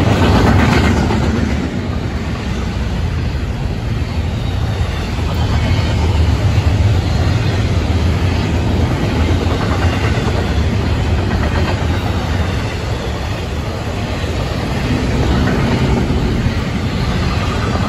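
Florida East Coast Railway intermodal freight train's double-stack container cars and trailer cars rolling past close by: steel wheels on the rails making a loud, steady low rumble that swells and eases slightly as the cars go by.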